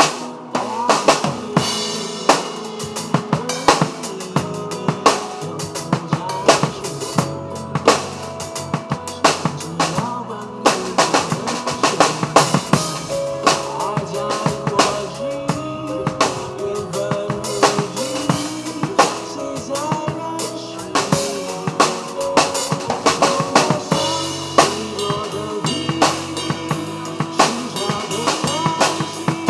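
Drum kit played in a busy groove, with dense snare, rimshot and bass drum hits, over an instrumental backing track.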